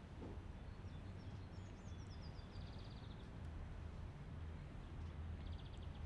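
Faint birdsong: short trills repeated every few seconds and a quick run of falling chirps about a second and a half in, over a low steady hum.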